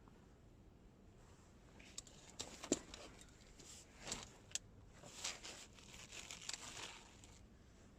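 Faint rustling and crinkling with a run of light clicks and knocks, sharpest about three seconds in: things being handled by hand.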